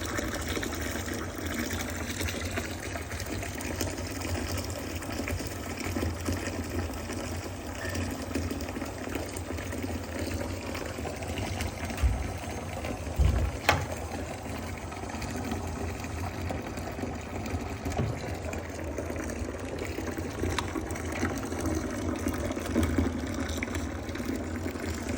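Water running steadily from a tap into a bath, with a couple of short low thumps around the middle.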